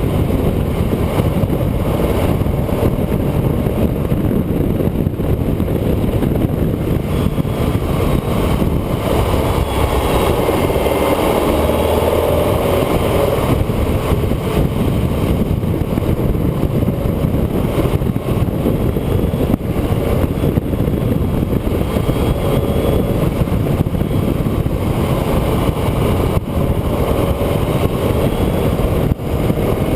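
A vehicle's engine running under way, with steady road and wind noise; the engine note rises and falls a few times as it drives through bends.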